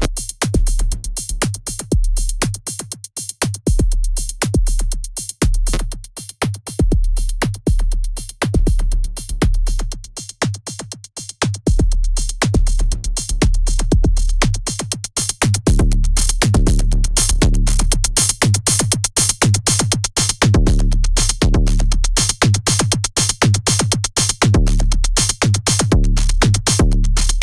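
Electronic music: a fast drum-machine beat over a deep pulsing bass line, with a synth pad filling in about halfway through, the parts run through an all-valve (tube) enhancer plugin for warmth and saturation.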